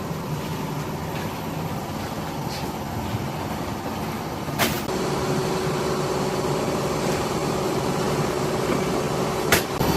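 Steady drone of factory machinery with a faint hum. A sharp click comes about halfway, after which a new steady tone joins, and another sharp click comes near the end.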